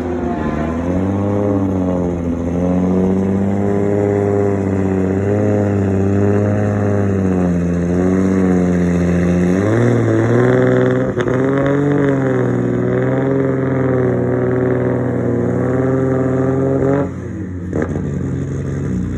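Nissan Skyline R34's straight-six engine running at low revs as the car creeps up a transporter ramp, its pitch dipping and rising several times with the throttle. The engine note drops away about 17 seconds in, leaving a lower steady hum.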